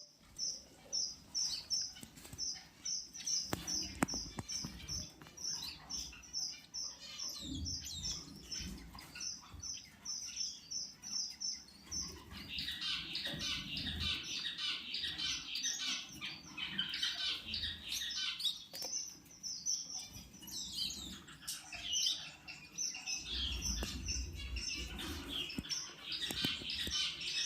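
Finches calling: a steady series of short, high chirps, about three a second, then from about twelve seconds in a denser, continuous twittering chatter.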